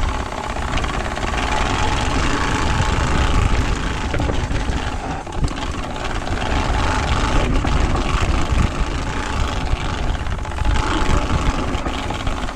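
Turbospoke bicycle exhaust buzzing steadily as the mountain bike rolls downhill, its plastic card flapping against the spokes for a motorbike-like engine sound, mixed with wind rumble on the chest-mounted microphone.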